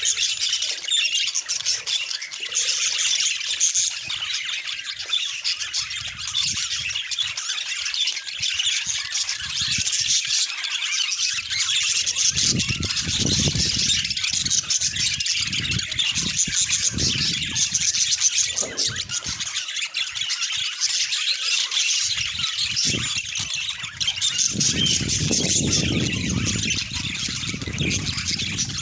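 Budgerigars chattering and squawking without a break, a dense high warble. A low rumble comes and goes under it in the second half.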